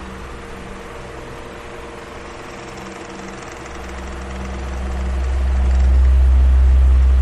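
Electric fan running: a steady motor hum with a deep low rumble and an even rush of air. The level holds low for the first few seconds, then swells and peaks near the end.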